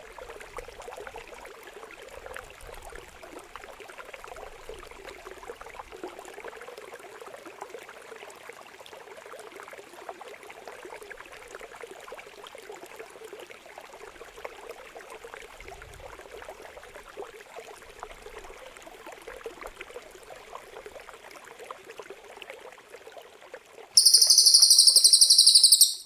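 Water trickling and gurgling steadily. About two seconds before the end, a loud, shrill, very high-pitched bird call comes in and stops abruptly.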